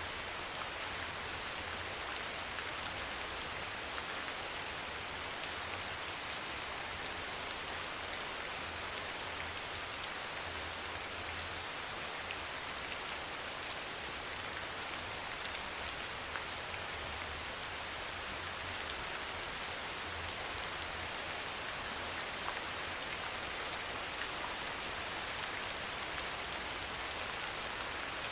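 Steady soft rain falling: an even hiss with scattered small drop ticks, constant in level throughout.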